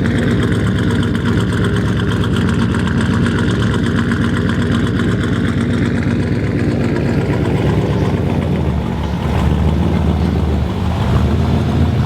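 Car engine idling steadily, its tone dropping lower and growing stronger about nine seconds in.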